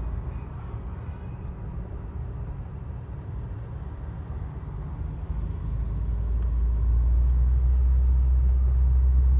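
Low, steady car engine and road rumble, growing louder from about halfway through.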